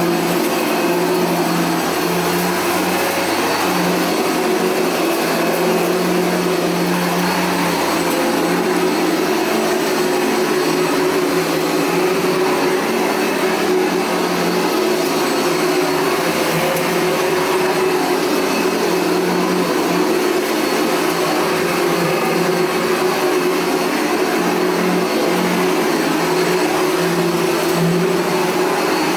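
Dirt Devil Featherlite upright vacuum cleaner running steadily while vacuuming a rug: a high motor whine over the rush of suction air, its pitch wavering slightly as it is pushed back and forth.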